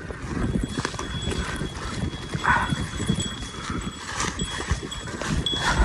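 Footsteps scuffing and slipping on a muddy, rocky mountain trail, irregular and steady throughout. A small bell tinkles thinly along with the steps.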